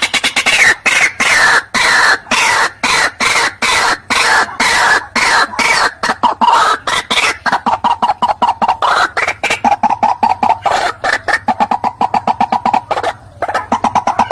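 White-breasted waterhen (teruwok) calling: a loud, unbroken run of harsh, clucking notes repeated about six times a second, over a faint steady hum.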